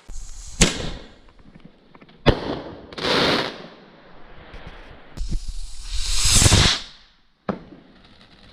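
Consumer fireworks going off: two sharp bangs in the first few seconds, a hissing burst after them, then a longer rushing whoosh in the middle, with another report near the end.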